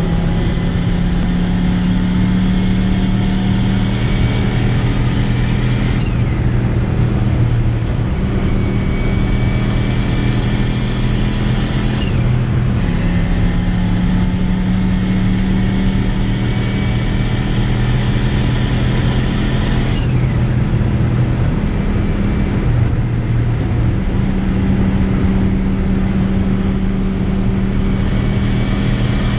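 Car driving at a steady speed: a steady low engine drone with road and wind noise that dips briefly a few times.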